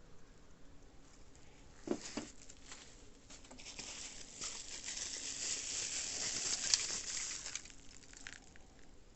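Packaging being handled while items are unpacked from a box: a couple of light knocks about two seconds in, then several seconds of crinkling and rustling that builds and then fades.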